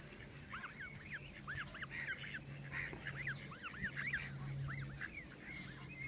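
A flock of waterfowl calling: many short, rising-and-falling calls overlapping one another, kept up throughout.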